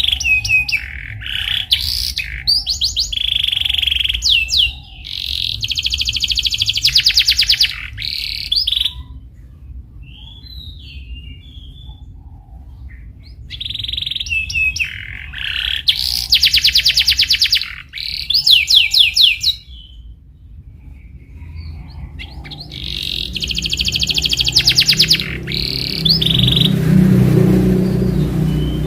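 Canary singing in long bouts of rapid trills and chirps, three bouts separated by pauses of a few seconds. A low rumble rises near the end.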